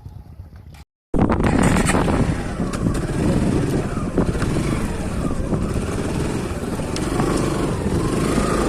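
Motorcycle riding: engine running under a dense rush of road and wind noise. It cuts in suddenly about a second in, after a brief silent gap, and is much louder than the quiet stretch before it.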